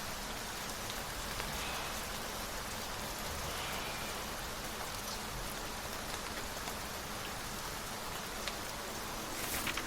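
Steady rain: an even hiss with a few sharp drop ticks, a small cluster of them near the end.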